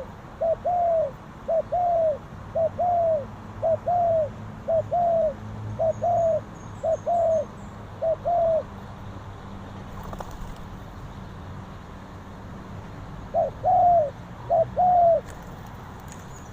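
Spotted dove cooing: a run of short two-part coos, about one a second for some eight seconds, then two more after a pause of about five seconds. Faint high chirps of a small bird in the background.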